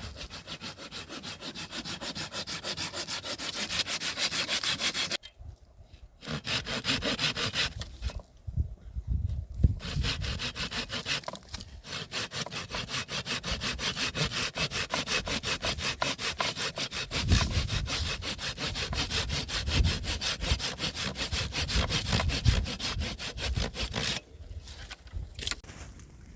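Rapid, even back-and-forth rasping strokes, like hand-sawing, breaking off briefly three times and stopping near the end.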